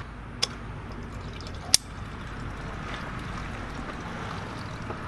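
Contaminated gasoline trickling from a pressure washer's fuel tank into a container, a steady pouring sound, with two sharp clicks about half a second and nearly two seconds in.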